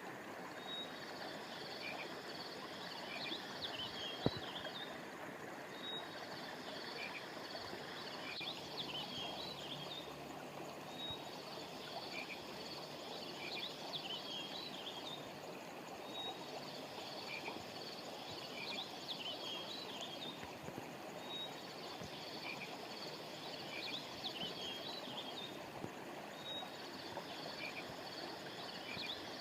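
River water flowing steadily, with birds chirping in a high phrase that repeats about every four seconds. A single short click about four seconds in.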